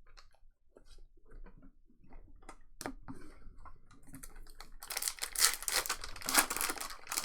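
Scattered light clicks and taps, then from about five seconds in two seconds of dense crinkling and tearing, as a foil trading-card pack is ripped open and handled.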